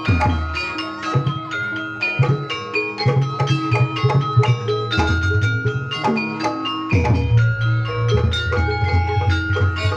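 Javanese gamelan-style music of the kind played for barongan and jaranan dance: a fast pattern of struck pitched percussion and drums over low, held bass notes.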